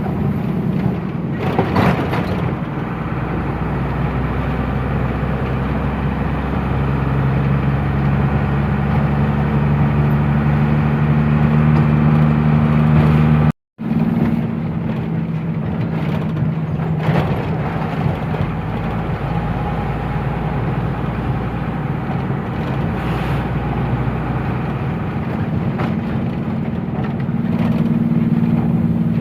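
Truck engine running steadily under way, heard from inside the cab, with a low drone and hum. The engine note rises about a quarter of the way through, and the sound cuts out abruptly for a moment about halfway.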